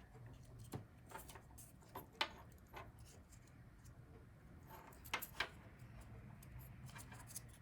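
Faint, scattered clicks and taps of power-cable connectors being handled inside a computer case, with a few sharper clicks about two seconds in and twice around five seconds in.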